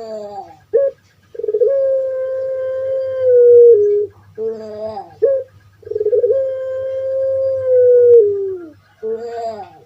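Puter pelung (long-voiced Barbary dove) cooing: each call opens with short bending notes and then holds a long, steady coo of about two and a half seconds that drops in pitch just before it ends. Two full calls, with a third beginning near the end.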